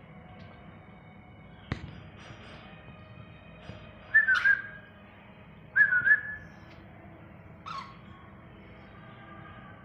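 Cockatiel giving short whistled calls: two loud ones about four and six seconds in and a fainter one near the end. There is a sharp click a little before the first call.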